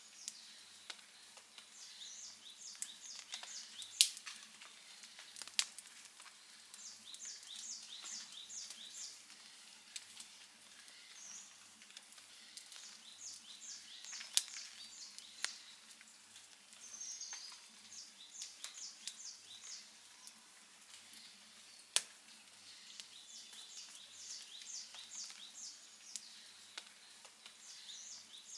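Outdoor wood campfire crackling steadily, with occasional sharp pops. A high, quick chirping in short runs of about five notes recurs every few seconds behind it.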